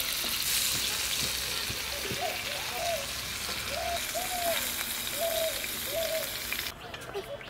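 Chicken kebab skewers sizzling in a little oil on a hot iron tawa, a steady frying hiss that drops away sharply near the end.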